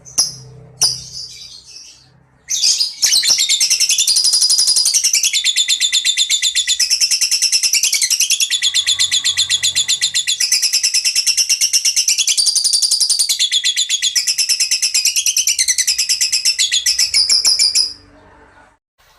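Songbird giving a long, rapid, high-pitched trill of fast-repeated notes that shifts pitch every second or so, after two short calls; it runs for about fifteen seconds and cuts off abruptly.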